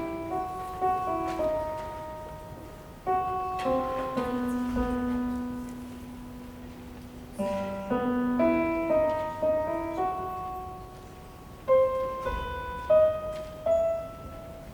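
Solo piano playing a slow passage, chords and melody notes struck a few at a time and left to ring, with no singing.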